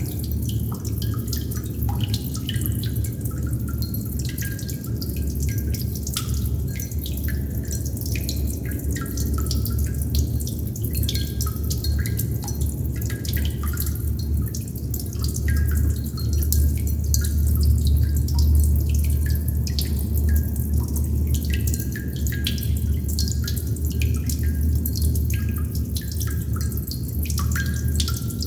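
Water droplets dripping in irregular quick plinks over a steady low rumble of running water.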